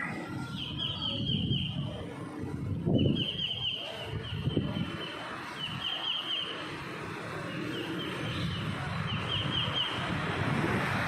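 An animal's short, high trilling call, repeated about six times over low rumbling noise.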